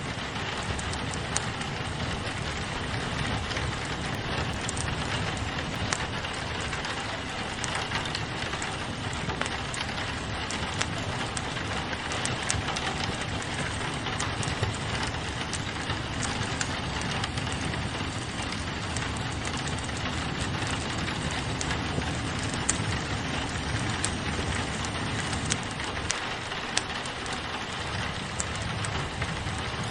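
Steady rain on a window mixed with a crackling wood fire: an even hiss of rain with scattered sharp pops and snaps from the fire.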